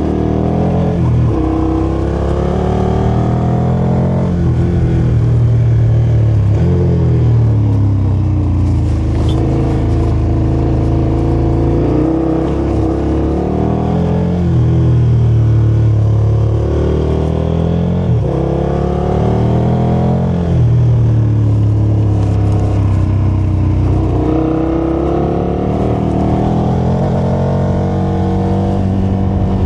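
KTM motorcycle engine being ridden, its pitch climbing and then dropping back sharply over and over, as through gear changes and on and off the throttle.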